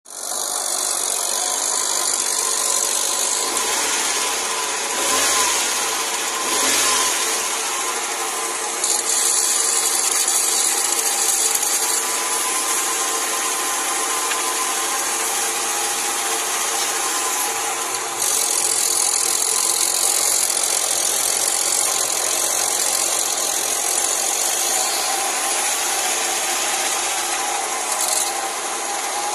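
Ford Aspire's 1300 cc four-cylinder engine idling steadily, heard close up in the open engine bay, with two brief swells in level around five and seven seconds in.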